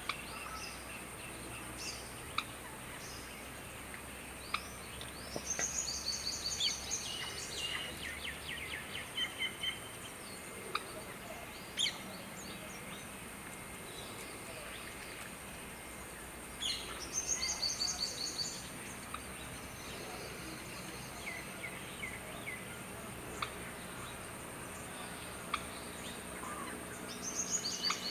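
Birds calling in bursts of rapid, repeated high chattering notes, three times over the stretch, with scattered single chirps between them. A steady high-pitched hiss runs underneath.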